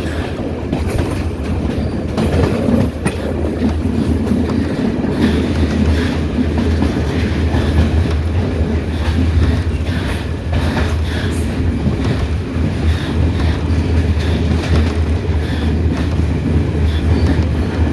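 Train running on the rails with a steady low drone, dense running noise and scattered short knocks from the wheels and track.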